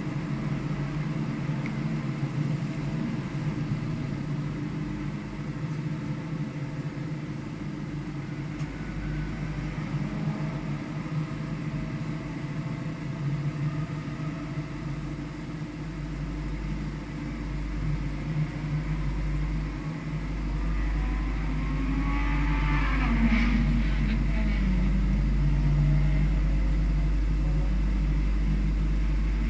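Vehicle engine running at track speed under varying throttle, with a low rumble that grows louder in the second half and a brief gliding whine about two-thirds of the way in.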